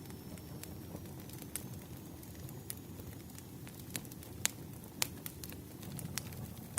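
Wood fire crackling: irregular sharp pops and snaps from burning firewood over a low, steady rumble of the flames, with the loudest snaps a little past the middle.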